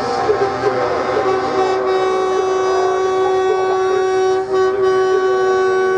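Truck air horns sounding in one long held blast, with other wavering horn tones mixed in over the first couple of seconds.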